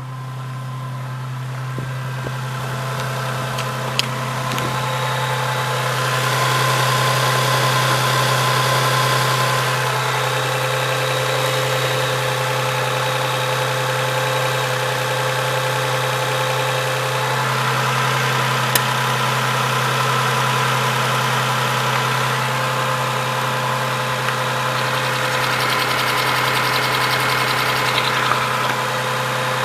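Toyota MCU15's 1MZ-FE 3.0-litre V6 engine running steadily at idle, with a sharp tick twice.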